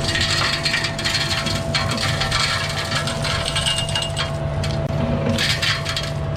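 Cat mini excavator running steadily, with crushed stone crunching and rattling as it is worked.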